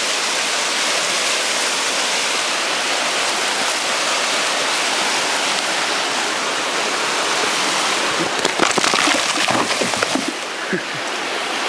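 Steady rushing of a rocky creek, with a short run of clicks and a few brief low voice-like sounds about two-thirds of the way through.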